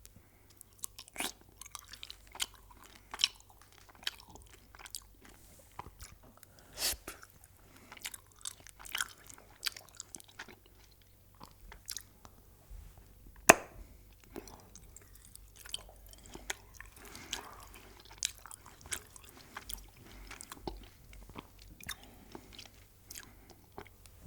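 Close-miked chewing and crunching of food, with many irregular sharp crackles and one loud crunch about halfway through.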